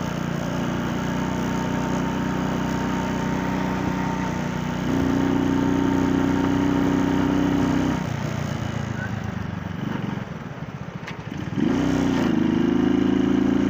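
Small motorcycle engine running at a red light, stepping up to a higher, steady pitch about five seconds in and dropping back about three seconds later. Near the end the engine note rises again as the bike pulls away and holds steady.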